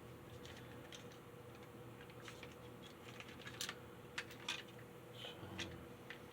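Light, scattered clicks and taps of a model train locomotive and its small parts being handled, clustered about three and a half to four and a half seconds in, over a faint steady hum.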